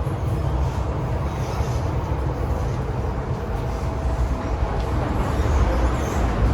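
MTR Tsuen Wan Line M-train electric multiple unit running along the track: a steady low rumble with a faint steady whine.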